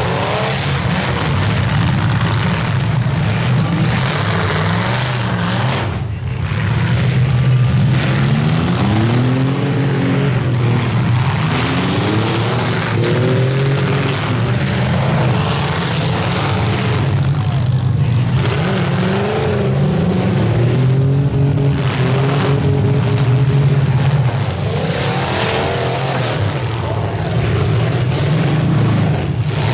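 Several demolition derby car engines running at once, revved up and down repeatedly so the pitch rises and falls in waves over a steady low drone.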